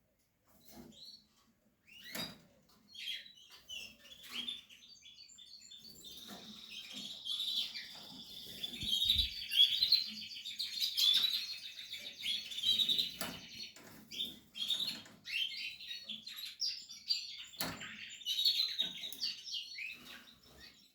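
Canary nestlings cheeping in the nest: scattered high chirps at first, swelling about six seconds in into a dense, continuous, high-pitched chorus. A few sharp knocks are mixed in, one loud one late on.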